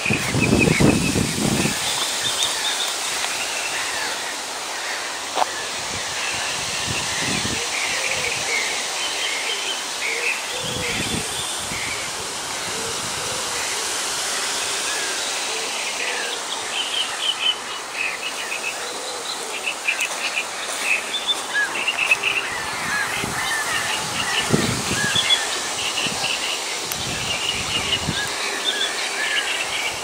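Many small birds chirping and singing in short, repeated calls, busier in the second half, over a steady background hiss. Occasional low thumps come and go.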